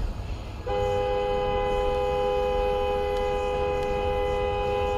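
A horn, most likely a semi truck's air horn, held in one long, steady blast that starts about a second in, sounding a chord of several notes over low road rumble.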